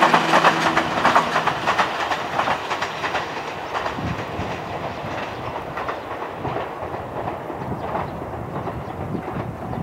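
A loud rolling rumble with rapid clattering, strongest at first and fading after about three seconds to a duller, lower rumble.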